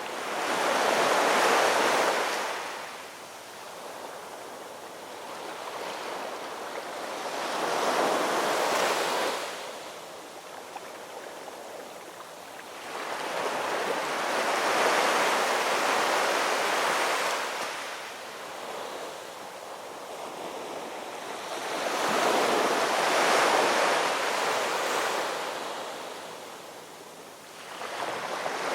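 Ocean surf: waves breaking and washing onto the shore, each a rushing swell that rises and fades, four of them about seven or eight seconds apart.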